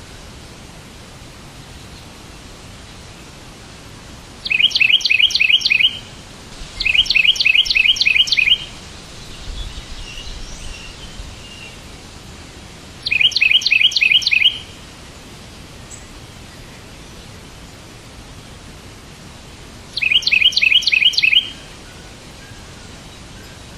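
A bird singing four separate bursts of rapid repeated chirps, each burst about a second and a half long, over a steady hiss. Fainter twittering comes between the second and third bursts.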